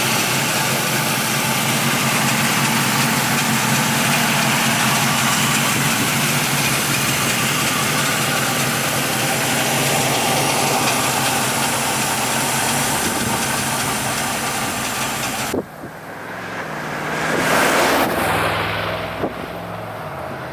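1978 Chevrolet Camaro Z28's 5.7L V8 running steadily at idle. About three-quarters of the way in the sound cuts off abruptly, and a quieter engine sound follows that swells up and down.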